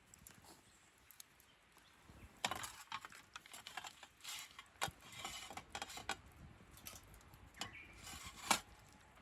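Scattered knocks, clicks and rustles of objects being handled, the sharpest about two and a half seconds in, near five seconds and near the end.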